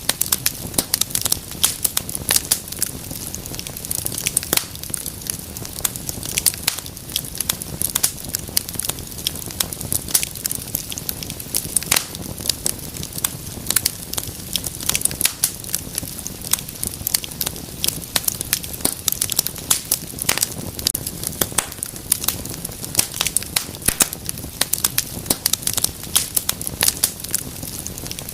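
Wood fire in a fireplace crackling and popping, many irregular sharp snaps over a low steady rush of flame.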